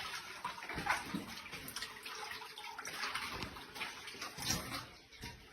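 Water of a shallow underground cave river splashing and trickling, with irregular stronger sloshes.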